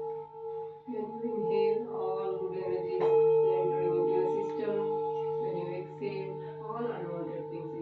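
Singing bowls ringing with a steady, layered hum, struck again several times: fresh tones come in about a second in, then near two and three seconds, and again near seven seconds, each swelling over the held ones and wavering as they ring.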